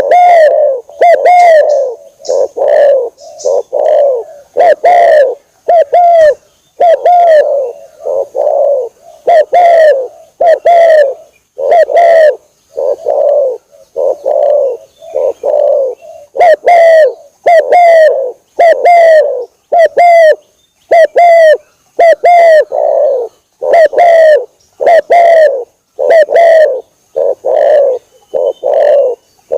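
Spotted dove cooing over and over as a lure call: short, low coos a little over one a second, in runs of several with brief pauses.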